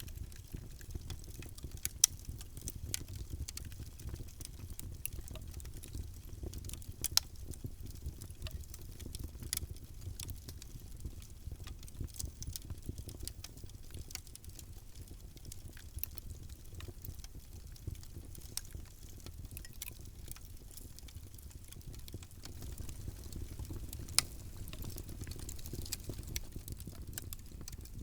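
Wood fire burning in a fireplace: a low steady rumble of the flames under constant irregular crackling. A few pops stand out above the rest, about two and seven seconds in and again near the end.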